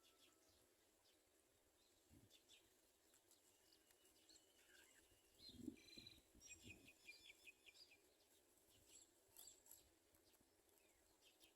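Near silence with faint, scattered high bird chirps. A quick run of repeated chirps and a soft low bump come about halfway through.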